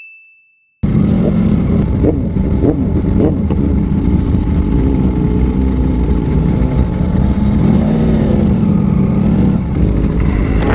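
After nearly a second of silence, a motorcycle engine runs under way with wind rushing over the microphone. Its pitch rises and falls a few times early on, then holds steadier.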